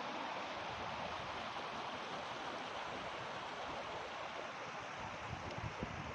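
Steady rushing of flowing water, like a mountain stream, with low rumbling gusts of wind on the microphone starting near the end.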